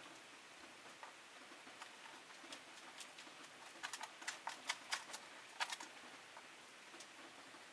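Rosy-faced lovebirds moving about their cage, making sharp clicks and taps, with a quick cluster of louder taps about four to six seconds in.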